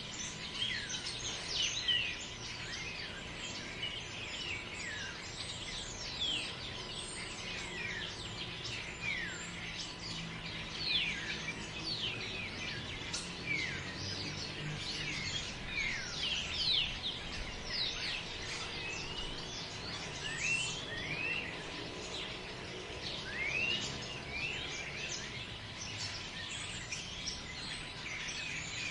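A dense chorus of many small birds chirping all through, with quick overlapping notes that slide up and down, over a faint low rumble.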